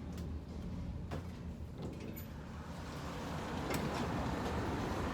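Steady low rumble of a 7 subway train with a few sharp clicks, the noise rising and growing louder from about three seconds in.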